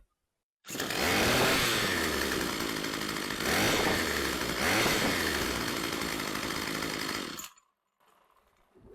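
Test run of the weed eater's repaired electric start. A motor starts under power, runs for about seven seconds with its speed rising and falling a few times, then stops abruptly. It works again after the plastic part that had wobbled loose was replaced with a metal one.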